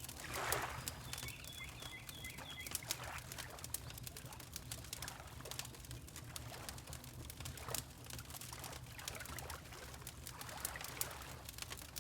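Fireplace crackling with frequent sharp pops over a low steady rumble, mixed with water lapping in gentle swells. A bird gives a short row of about five faint chirps between one and three seconds in.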